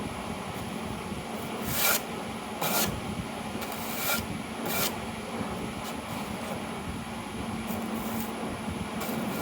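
A broom sweeping debris across a workbench top: a steady scratchy rubbing, with four sharper strokes in the first half of the sweep.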